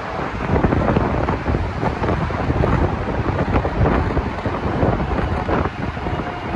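DSB Class EB (Siemens Vectron) electric locomotive hauling coaches on the move: a loud rumble of wheels on rails with irregular clatter, over wind on the microphone.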